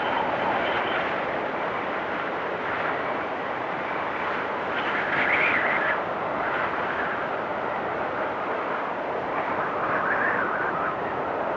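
Blizzard wind blowing in a steady roar, with gusts swelling about five seconds in and again near ten seconds.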